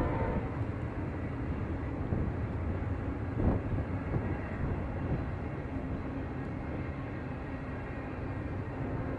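A train horn blast cuts off right at the start, leaving a train's steady low rumble, with a short knock about three and a half seconds in.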